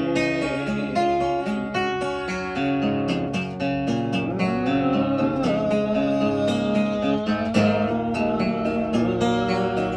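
Guitar playing an instrumental passage, picked notes over held chords, with bent notes sliding up in pitch a few times.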